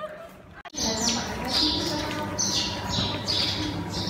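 Small birds chirping over a steady outdoor background. The chirps are short, high and repeated several times a second, and they start abruptly after a near-quiet first moment.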